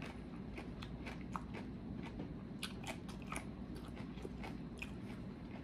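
Chewing a mouthful of crisp fried corn tostada topped with shrimp ceviche: a run of small, irregular crunches and crackles.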